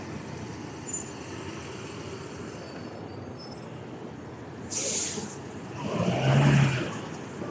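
City street traffic: a steady hum of vehicles, a short hiss about five seconds in like a heavy vehicle's air brake, then a large vehicle's engine passing close and loud near the end.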